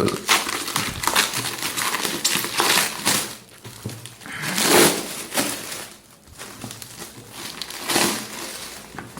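Book packaging crinkling and rustling as it is unwrapped by hand, in irregular bursts, with the loudest handling a little under a third of the way in, around the middle and near the end.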